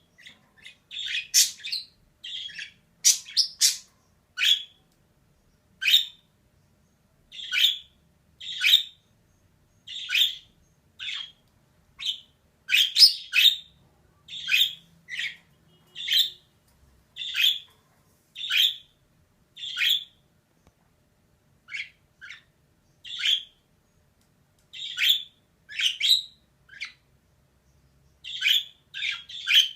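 Female budgerigar (budgie) giving short, sharp chirping calls, about one a second, with brief silences between them.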